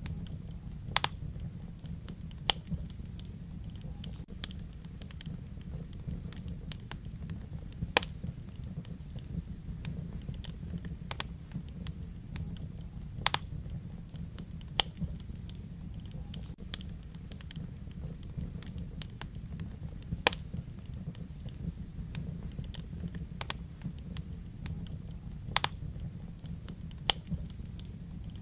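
Wood fire burning in a fireplace: a steady low rumble of the flames with irregular sharp crackles and pops, a dozen or so loud ones among many small ticks.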